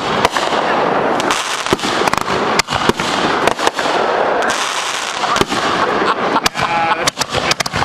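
Consumer fireworks going off in a rapid, irregular string of loud bangs and pops over continuous crackling.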